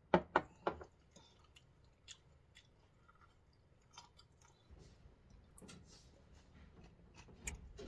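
People chewing and biting fresh fruit, with three sharp crunching clicks in the first second and scattered smaller ones after.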